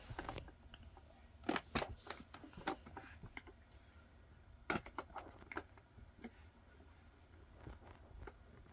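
Scattered light plastic clicks and taps from a baby handling a frog-pond toy, in a few small clusters with short gaps between them.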